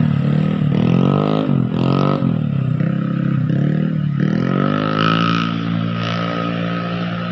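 Heavily loaded truck's engine revving up and down again and again, labouring under its load of timber, then climbing once more about four seconds in and holding a steady pitch.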